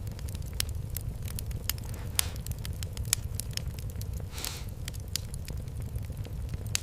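Fireplace fire crackling, with frequent irregular pops and snaps over a steady low rumble of the flames and a brief hiss a little past the middle.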